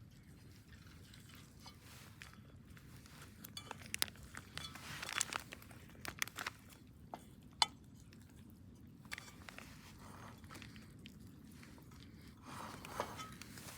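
Faint, scattered crunching and rustling with a few sharp clicks as food and cookware are handled at a camp stove. There is a louder crunchy stretch about five seconds in and a single sharp click a little later.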